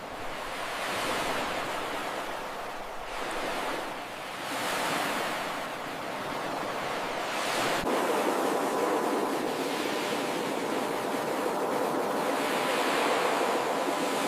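Ocean surf breaking on a beach, the wash of each wave swelling and fading every few seconds.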